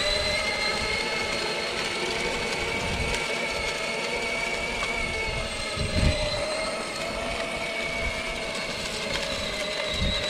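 Battery-powered kids' ride-on toy tractor's electric drive motors whining steadily as it pulls a small disc along the driveway, with a single thump about six seconds in.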